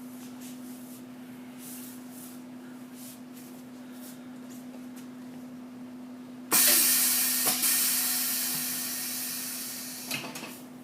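Truck tire sidewall remover machine running with a steady electric hum and light ticking. About six and a half seconds in, a sudden loud hiss starts and fades away over about three and a half seconds, with a click in it and another as it ends.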